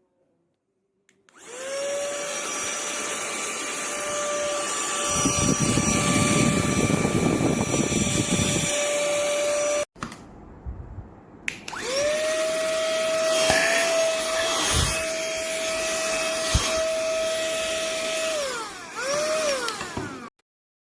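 Small cordless vacuum cleaner/air duster running: its high-speed motor whines up to a steady high pitch over a rush of air, stops, then starts and runs again. Near the end it winds down, runs briefly once more and stops.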